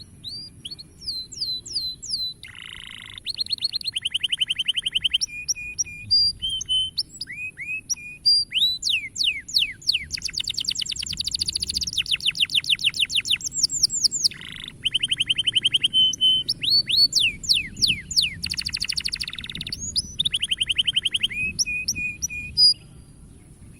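Domestic canary singing a long, varied song of fast trills, rolling repeated notes and quick sweeping whistles, with short gaps between phrases; it stops shortly before the end.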